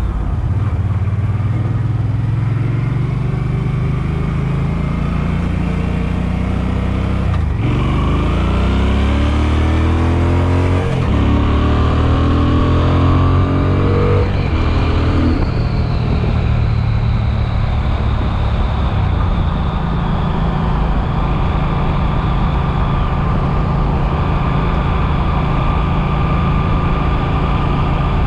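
Suzuki Boulevard M50's V-twin engine under way: running low at first, then about seven seconds in the revs climb, break briefly for an upshift about eleven seconds in, climb again, and from about fifteen seconds it holds a steady cruising pitch.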